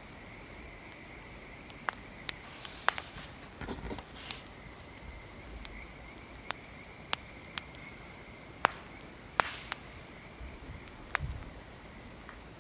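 Wood fire crackling: sharp, irregular pops and snaps over a low steady hiss. A few brief rustling scrapes come through about 3.5 seconds in, near 9.5 seconds and near 11 seconds.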